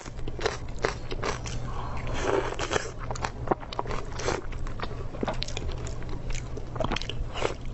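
Biting into a raw green chili pepper and chewing it: many short, crisp crunches. A low, steady hum runs underneath.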